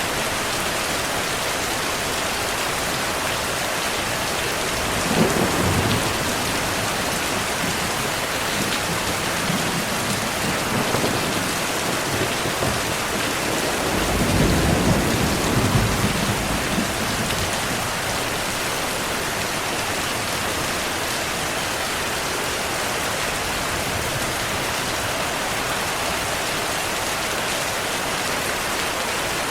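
Steady heavy rain hissing, with thunder rumbling twice: a short roll about five seconds in and a longer one from about fourteen to seventeen seconds.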